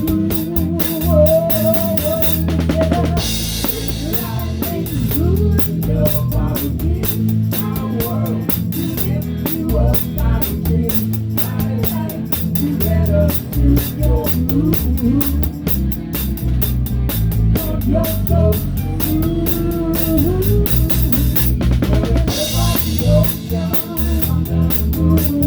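Live rock band playing a song with the drum kit loudest: a Pearl kit with a towel-dampened snare keeping a steady kick-and-snare beat under bass and melodic lines. Cymbal crashes ring out about three seconds in and again near the end.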